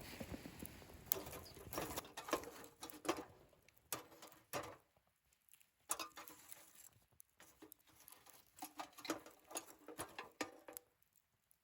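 Wood fire crackling in a fire stand, with irregular snaps and pops, busier in the first couple of seconds and falling quieter near the end.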